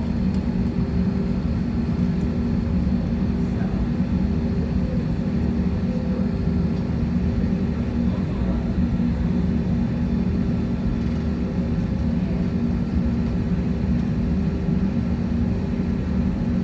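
Steady cabin hum inside an Airbus A321-231 at low engine power before takeoff: its IAE V2500 turbofans make an even drone with constant low tones, and no power-up.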